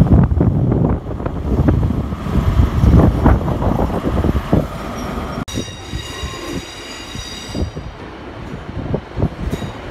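LNER HST (InterCity 125) running past: a loud rumble with its wheels clattering over rail joints and points. After a sudden cut about halfway through, a quieter Northern Sprinter diesel unit approaches, with a high squeal for about two seconds.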